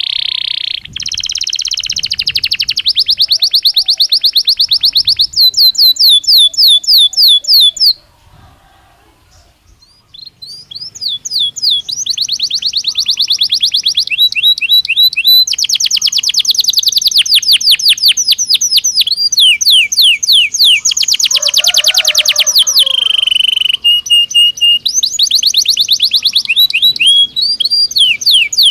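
Belgian canary singing: long, loud phrases of rapid repeated notes, rolling trills and chopped, rattling runs. The song breaks off for about two seconds about eight seconds in, then resumes.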